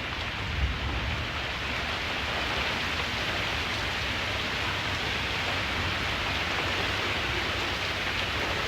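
Steady heavy rain falling, an even hiss, with a low rumble underneath and a brief low thump about half a second in.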